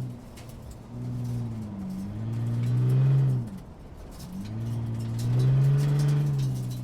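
Sports car engine accelerating twice, each run lasting about two and a half seconds with the pitch dipping and then climbing. There are short, quieter lulls between the runs.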